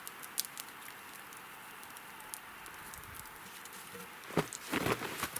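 Branches and logs being handled and stacked onto a shelter wall: a few faint clicks, then a cluster of knocks and crunches from about four seconds in.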